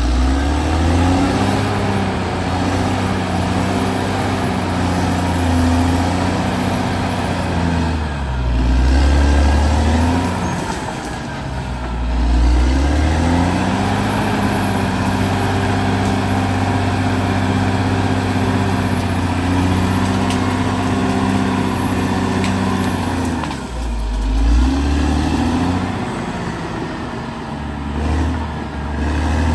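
Caterpillar D6R XL bulldozer's diesel engine working under load. The revs dip and climb back up three times, over a steady high whine.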